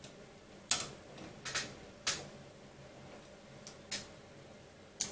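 Irregular sharp clicks and taps of small hard plastic and metal parts and a tool being handled while fitting a part into a 3D printer's geared extruder assembly, about six in all.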